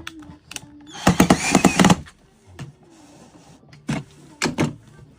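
Parts of a turntable being handled and fitted together: a dense burst of rattling clicks lasting about a second, then a few sharp clicks near the end.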